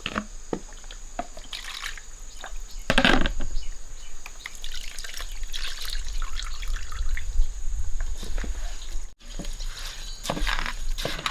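Water splashing and dripping in uneven strokes, with a louder splash about three seconds in; the sound drops out for an instant near the end.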